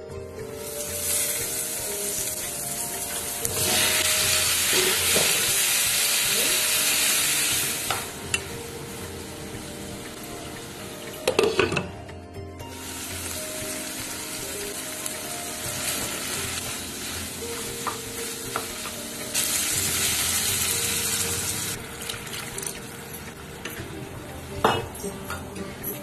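Vegetables frying in a kadai while a spatula stirs them, with a steady sizzle that swells into a loud hiss twice. A few sharp knocks of the spatula against the pan are heard, and soft music plays underneath.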